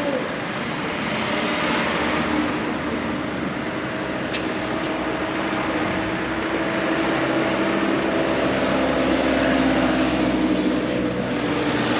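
Street traffic, with a motor vehicle engine running close by and steady throughout, growing a little louder towards the end. A single sharp click comes about four seconds in.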